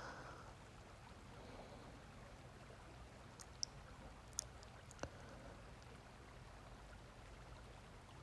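Faint, steady sound of a forest stream flowing, with a few brief high ticks near the middle.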